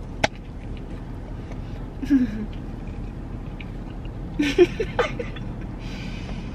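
A person biting into and chewing a burger. A sharp click comes just after the start, and short closed-mouth "mm" hums follow about two seconds in and again near five seconds, over a steady low hum.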